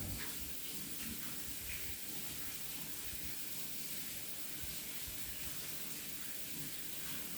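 Chicken fillets frying in a pan of hot oil: a steady sizzle.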